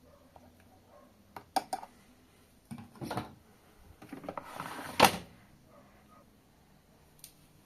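Handling noises on a washing machine: a few sharp clicks, short sliding, rustling sounds, then a loud sharp knock about five seconds in, like a drawer or door being pushed shut.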